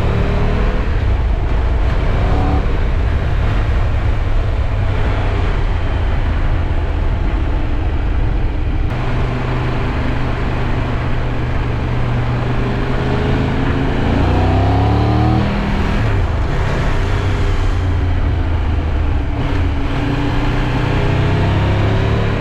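Triumph Tiger 1200's three-cylinder engine running under way, its pitch rising and falling with the throttle over a steady rush of wind. Near two-thirds through, the engine note climbs and then drops abruptly.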